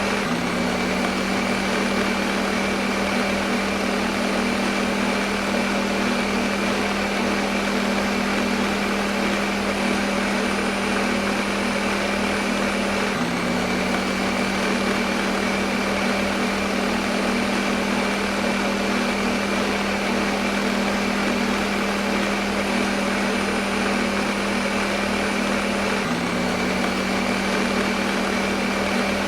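Electric kitchen blender running steadily at constant speed: a whirring motor hum over a broad hiss. The hum briefly dips and recovers twice, about thirteen seconds apart.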